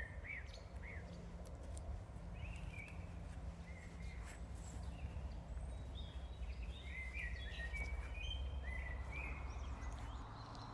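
Small songbirds singing and chirping in short repeated phrases, over a low steady rumble.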